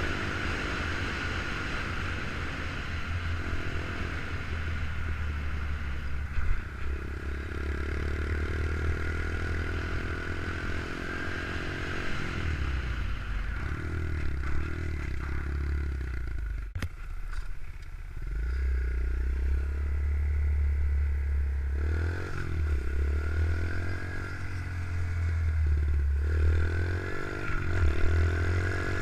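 Small single-cylinder pit bike engine running while being ridden, its pitch rising and falling as the throttle is opened and closed, with a sharp click about two-thirds of the way through.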